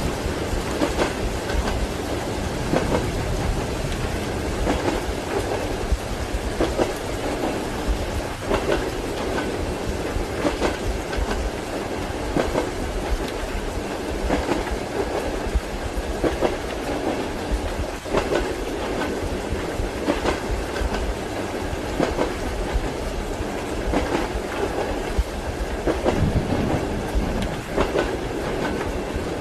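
Train wheels clacking over rail joints, repeated clacks over the steady rumble of a moving passenger carriage, heard from inside the compartment.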